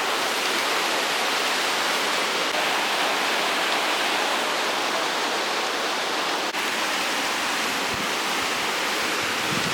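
Steady rushing of water, like a mountain stream or river running close by.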